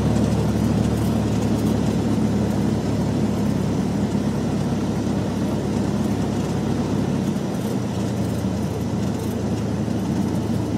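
Cessna 172 light aircraft's piston engine and propeller running steadily, a constant low drone.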